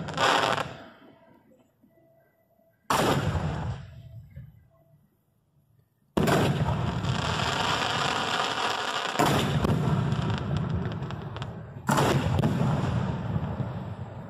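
A professional fireworks display heard at close range from the firing position: sharp bangs just after the start and near three seconds, then a dense run of overlapping reports from about six seconds to near twelve, and another bang near twelve seconds, each trailing off over a second or more.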